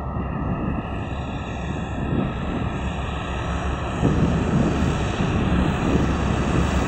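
3M62U diesel locomotive's two-stroke V12 diesel engines labouring under heavy load, a deep steady drone that grows louder, with a step up about four seconds in. The engines are working hard to haul a very heavy train up a steep grade.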